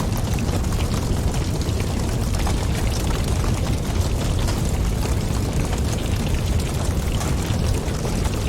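Fireplace fire crackling, with frequent small irregular pops over a steady low rumble of flames and wind.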